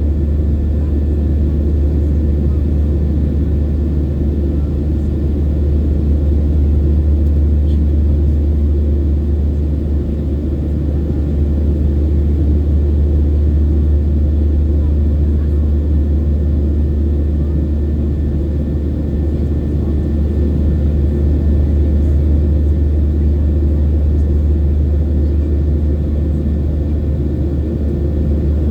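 Boeing 737's CFM56-7B jet engines and airflow heard from inside the passenger cabin as a loud, steady, deep rumble, with no change in level.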